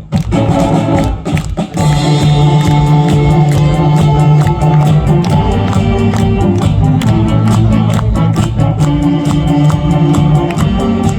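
A saxophone big band playing a trot and pop-song medley over a steady drum beat. The sound thins out briefly about a second and a half in, then the full band comes back in.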